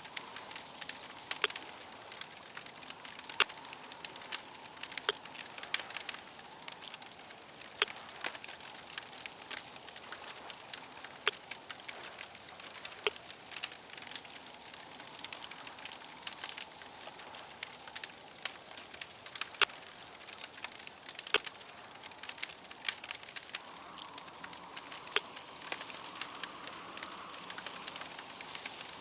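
Crackling fire: a steady hiss broken by frequent, irregular sharp pops and snaps.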